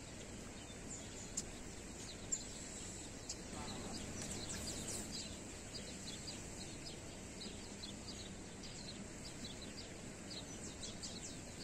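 Small birds chirping in short, repeated high calls over a steady outdoor background hiss, with a couple of soft clicks a second or two in.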